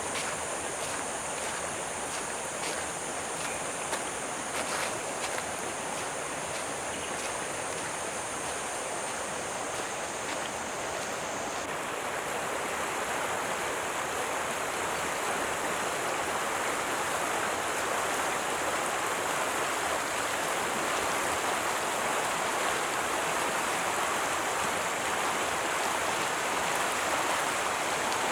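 Stream water running steadily, growing gradually louder. Over it comes a high, steady insect buzz that changes abruptly about twelve seconds in, with a few light footstep-like ticks in the first seconds.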